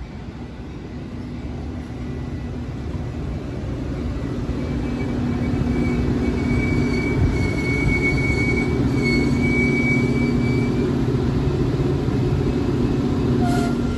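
Metra bilevel commuter cars rolling past on steel wheels, the rumble growing louder over the first several seconds and then holding steady. A thin, steady high-pitched squeal from the train's running gear runs from about five seconds in to about eleven.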